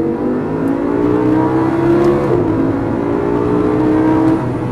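2014 Audi R8 V10 Plus's 5.2-litre V10 accelerating hard into a tunnel, its pitch climbing, dipping briefly about two seconds in as it shifts up, then climbing again before easing off near the end.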